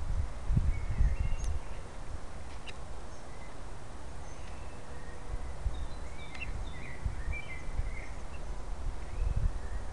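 Small birds chirping sporadically, short high calls bunched together about two-thirds of the way in, over a low, uneven rumbling noise that is heaviest in the first two seconds and again at the very end.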